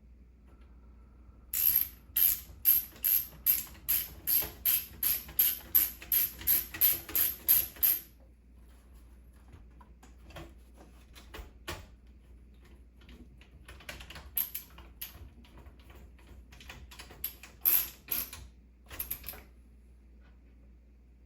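A small ratcheting mechanism clicking in a steady run of sharp strokes, about two a second, for several seconds, then scattered fainter clicks and a short second burst of loud clicks near the end.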